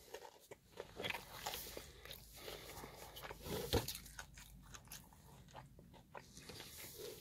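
A person chewing a fried chicken tender, with faint, irregular crunches and mouth sounds.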